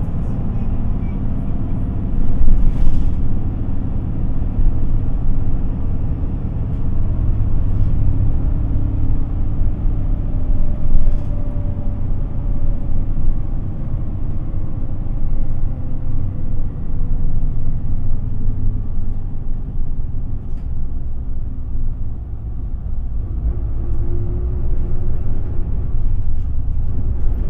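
Inside a moving Isuzu Erga city bus: a steady low rumble of diesel engine and road noise, with the engine's tone slowly rising and falling. Brief knocks come about two and a half and eleven seconds in.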